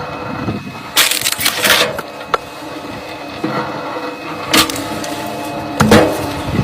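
Firewood being split: wood cracking and splintering in about three loud bursts, about a second in, midway and near the end, over a steady engine hum.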